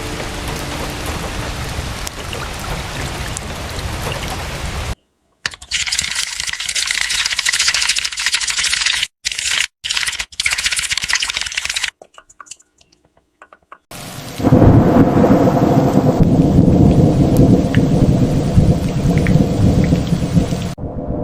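Rain and thunderstorm ambience in edited pieces: steady rain hiss, then an abrupt cut to a brighter, high-pitched hiss broken by brief dropouts, a couple of seconds of near silence, and then a loud, low rolling rumble of thunder over the rain.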